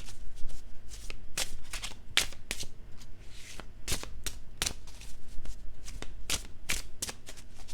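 Tarot cards being shuffled and handled: a run of crisp, irregular card snaps and flicks, a few per second.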